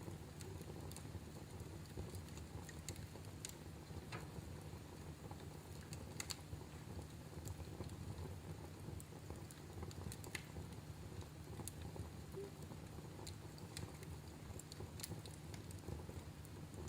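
Wood fire crackling in a fireplace: scattered sharp pops and snaps at irregular intervals over a low, steady rumble of the flames.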